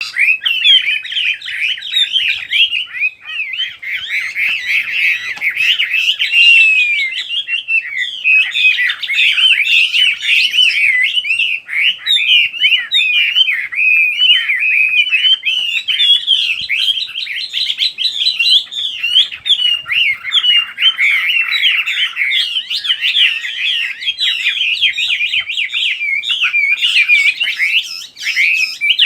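Songbird singing a long, continuous stream of rapid chirps and twittering notes.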